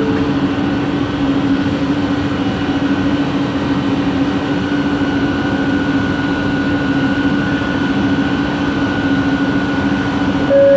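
Bombardier Innovia ART 200 linear-motor train running at steady speed, heard from inside the car: a steady rumble of running noise with an even motor hum and a fainter high whine held at one pitch.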